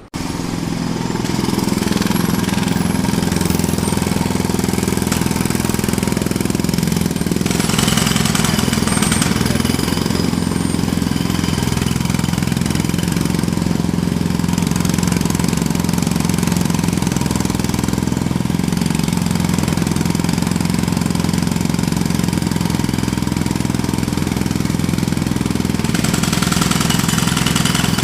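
Jackhammer breaking pavement in a continuous run of rapid blows, with a steady low engine-like drone beneath. It starts abruptly and holds at a loud, even level.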